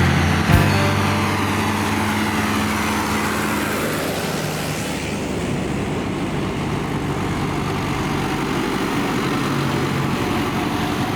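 Engine running steadily, with a pitch sweeping downward over the first few seconds, as when a machine passes by.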